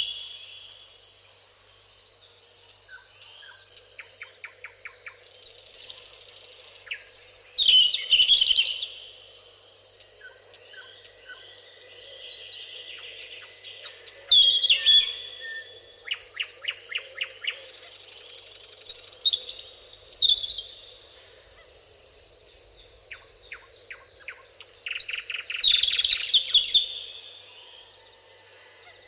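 Several songbirds singing and calling at once: varied chirps, whistled phrases and rapid trills, with a few louder bursts of song over a faint steady high thin tone.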